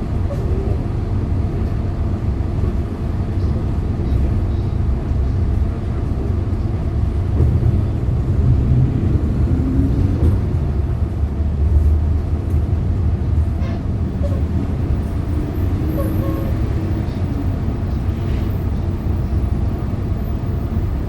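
Hyundai Green City CNG city bus engine running while driving, heard inside the cabin: a steady low drone whose pitch rises and falls a couple of times.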